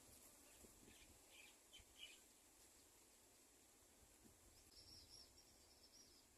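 Faint high-pitched bird chirps: a few short ones about a second in, then a quick run of higher chirps near the end, over a quiet background hiss.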